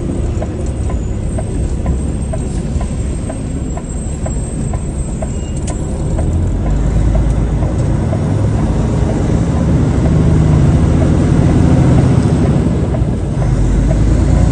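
Truck driving on the road: a steady low engine and road rumble that grows louder about halfway through. A faint regular ticking runs through the first half.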